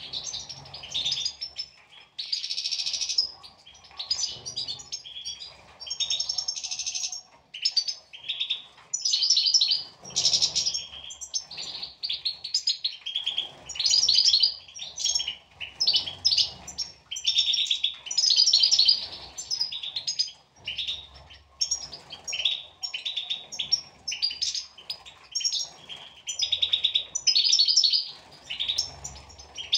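European goldfinches singing: a continuous run of quick, high chirps and trills with only brief pauses.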